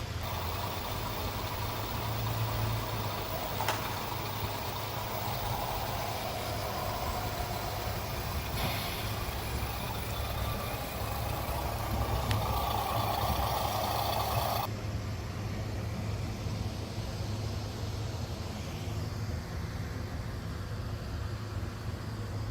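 Radio-controlled 6x6 truck's motor and gears whining as it drives, over a steady low hum and tyre noise; the sound changes abruptly about two-thirds of the way through.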